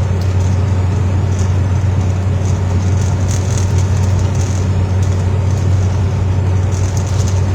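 Steady drone of a vehicle driving on the road, heard from inside the cabin: low engine hum and tyre noise, even throughout.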